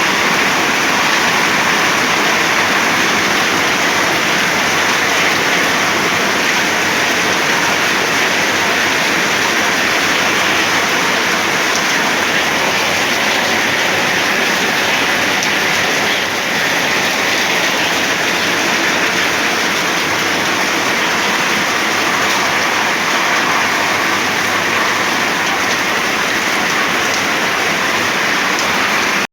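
Heavy storm rain pouring down in a steady, loud hiss.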